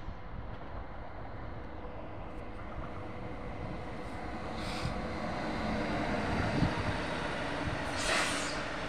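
Bayerische Regiobahn electric multiple unit approaching and passing: a steady rail rumble and hum that grows louder over the last few seconds, with a short hiss about eight seconds in.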